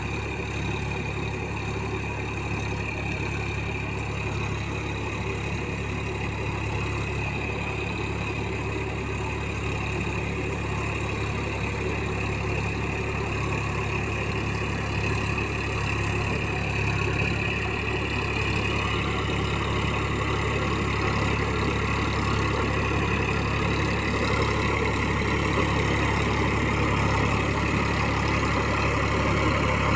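Massey Ferguson 9000 tractor's diesel engine running steadily while puddling mud, growing gradually louder.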